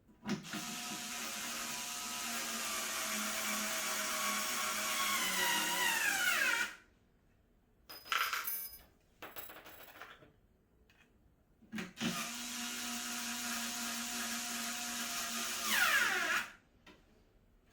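Power drill-driver running twice, for about six seconds and then about four seconds, presumably driving screws while assembling a cat tower. Its whine drops in pitch at the end of each run as the motor slows, with a few short clicks in the pause between.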